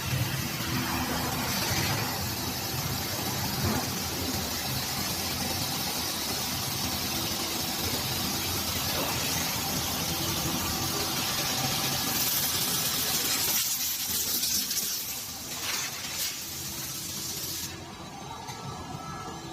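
Industrial forming machine running: a steady hiss of air over a low machine hum, with the hiss dropping away near the end.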